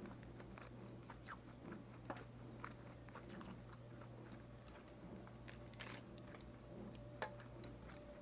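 Close-miked chewing of bulgogi lettuce wraps: many small wet, crunchy clicks from crisp lettuce and meat, over a steady low hum.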